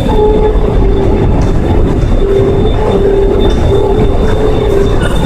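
Ride noise inside a driverless airport people-mover train (the PHX Sky Train) as it runs along its guideway: a steady low rumble with a steady whine, one part of which swells and fades every second or so.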